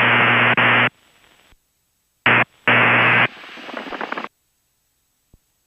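Bursts of hiss and static with a low hum over the aircraft radio headset audio, cutting in and out abruptly. The longest burst ends about a second in, two shorter ones follow, and the sound drops to dead silence after about four seconds.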